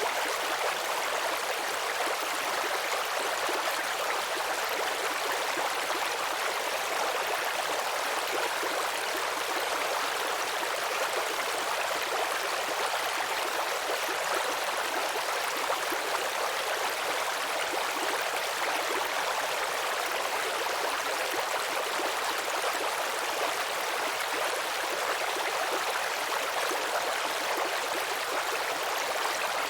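A babbling brook: shallow stream water trickling and gurgling steadily.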